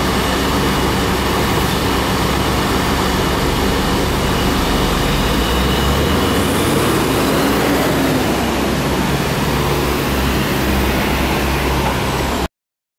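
Scania bus engine running steadily, heard from inside the passenger cabin with a hum of road and cabin noise; the sound cuts off abruptly near the end.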